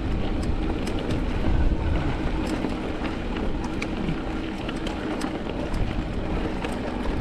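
Mountain bike riding a rough dirt trail: steady wind buffeting on the microphone and tyre rumble, with scattered small clicks and rattles from gravel and the bike.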